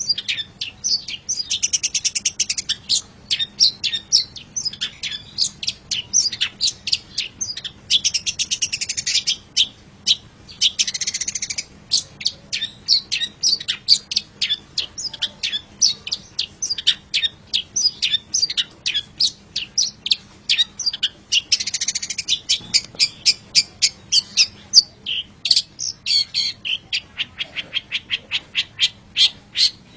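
Long-tailed shrike (cendet) singing a fast, continuous chattering song of sharp, high notes, several a second, broken a few times by short buzzy trills.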